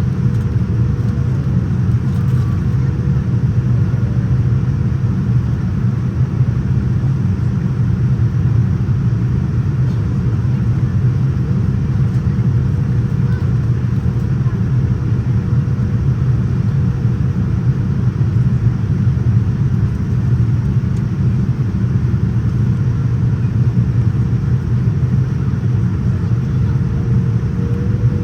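Steady cabin rumble of airflow and engines inside a Boeing 787-9 airliner in flight, with a faint steady hum above it.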